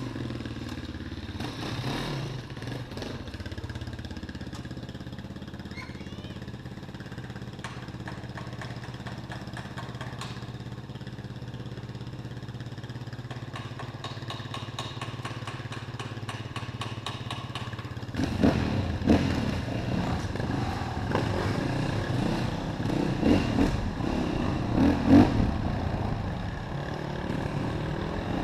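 Yamaha WR450F enduro motorcycle's single-cylinder four-stroke engine running steadily at low revs with some ticking clatter. About 18 seconds in it gets much louder as the throttle is opened in repeated uneven bursts, revving up and down while riding off-road.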